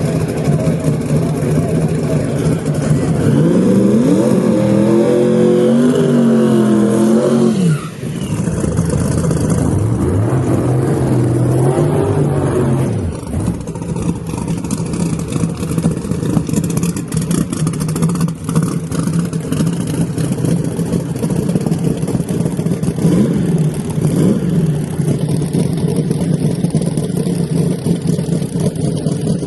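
Drag car engines: a loud, steady low engine note all through, with an engine revving up and back down twice, about three seconds in and again about ten seconds in.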